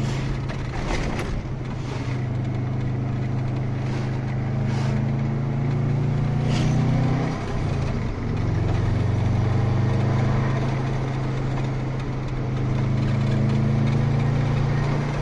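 Turbocharged Subaru EJ20G flat-four engine running under way, heard from inside the car's cabin as a steady drone. About halfway through the note drops out briefly, then comes back steady.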